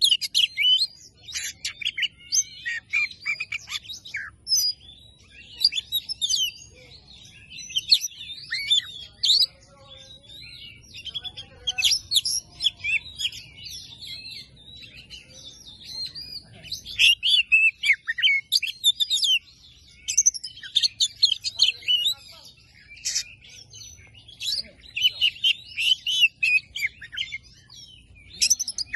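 Oriental magpie-robin (kacer) singing a fast, varied song of rapid whistled and scratchy notes, in bursts with short pauses between phrases.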